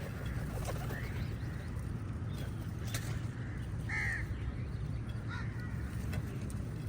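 Crows cawing, a few scattered calls with the clearest about four seconds in, over a steady low rumble.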